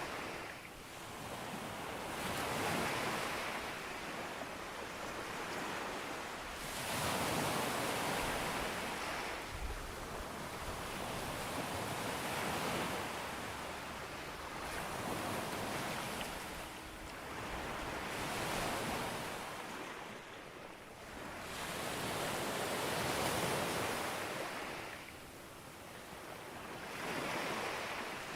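Sea waves breaking on a beach, one after another, each a rush of surf that swells and fades about every four to five seconds.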